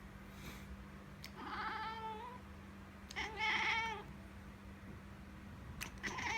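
Domestic cat meowing at a fly it is watching: two drawn-out, wavering meows, with a third beginning near the end.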